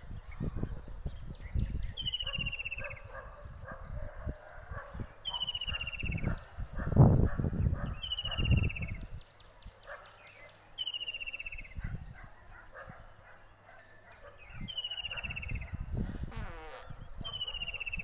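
A bird repeating a short call that slides downward in pitch, six times at intervals of a few seconds, over faint chatter of other birds. Low rumbling noise on the microphone runs underneath, with a loud thump about seven seconds in.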